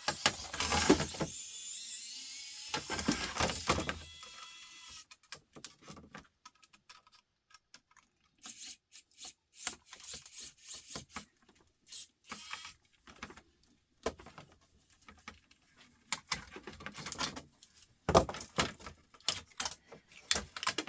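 A laptop being taken apart: small screws coming out and parts being worked loose. About four seconds of steady whirring give way to scattered clicks, taps and scrapes of small metal and plastic parts, with a flurry of knocks near the end.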